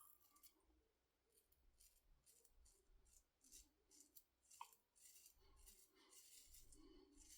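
Faint scraping of an IBC Kamasori shavette's blade cutting through several days' stubble, a run of short strokes one after another.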